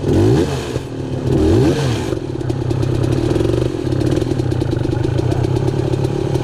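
Dirt bike engine revved up and down twice in quick blips, then settling to a steady low run about two seconds in, with a clatter of small ticks over it.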